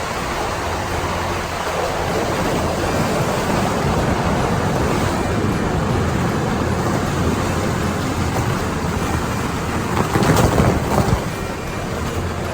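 A sled sliding fast over icy sleet, a steady rushing scrape mixed with wind on the microphone, briefly louder about ten seconds in.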